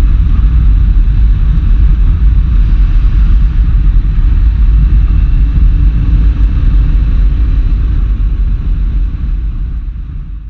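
Yamaha Tracer 7 parallel-twin with a full GPR exhaust running steadily under way, under a heavy low rumble of wind on the microphone. The sound fades out near the end.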